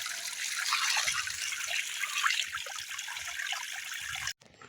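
River water flowing and trickling steadily, cutting off abruptly near the end.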